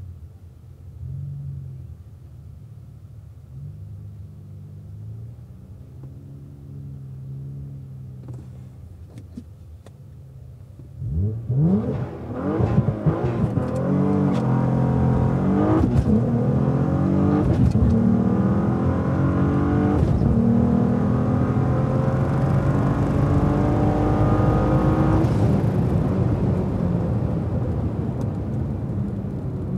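Car engine on a drag-strip pass. It idles with light revs for about ten seconds, then is brought up hard for the launch. It runs at full throttle with its pitch climbing and dropping back through three upshifts from first to fourth gear, then eases off near the end.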